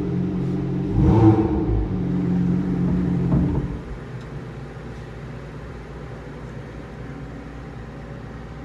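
A motor or engine running steadily with a low hum, briefly louder about a second in, then cutting out about three and a half seconds in and leaving a quieter steady hum.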